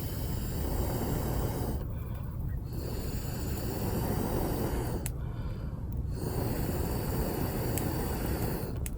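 Small moped engine running steadily while under way, a continuous low drone.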